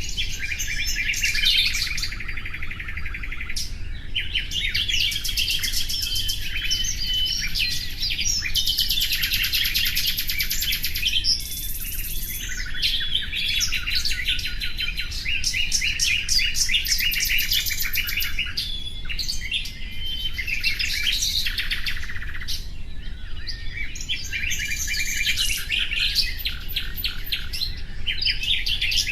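Common nightingale singing continuously: varied phrases of fast repeated notes and trills, mixed with a few long whistled notes and short pauses between phrases.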